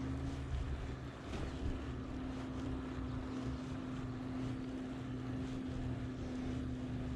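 Wind rumbling on the microphone of a moving bicycle, with a steady low hum throughout.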